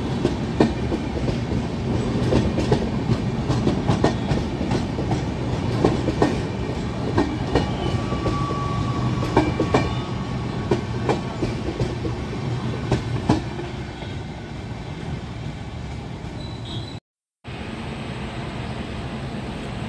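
Indian Railways LHB passenger coaches rolling past close by: a steady rumble with sharp clicks and clatter as the wheels cross rail joints, easing to a smoother rumble later on. Near the end the sound cuts out briefly and gives way to a quieter steady noise.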